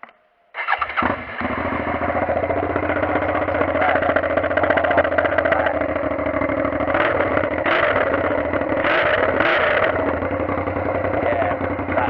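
Suzuki SV650S V-twin engine started about a second in and left running with no silencer fitted, open at the cut-off exhaust pipe. The engine is revved in a few short blips between about seven and ten seconds in.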